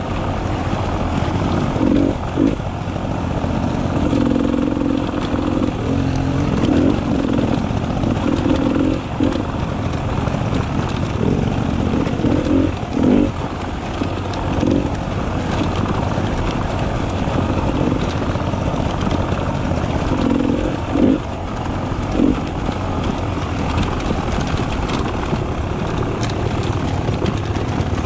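Beta 300 RR two-stroke single-cylinder enduro motorcycle engine running on a trail ride, its revs rising and falling with the throttle, with a few short knocks along the way.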